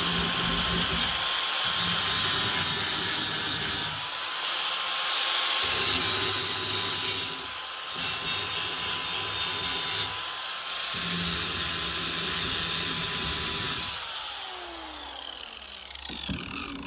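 Small high-speed rotary power tool running with a steady whine, grinding against the workpiece in stretches of a few seconds with short easings-off. About 14 seconds in it is switched off and its whine falls in pitch as the motor spins down.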